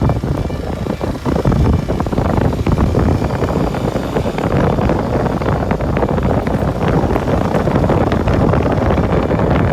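Kawasaki Super Sherpa's single-cylinder four-stroke engine running under way, with wind rushing over the microphone and scattered short clicks and knocks from the ride.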